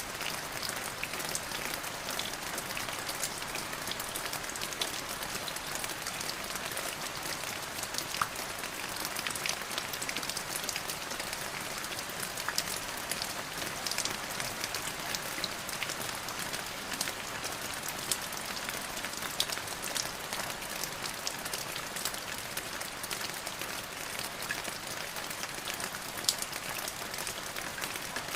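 Steady rain falling, with a constant hiss and many separate drops ticking sharply on a surface.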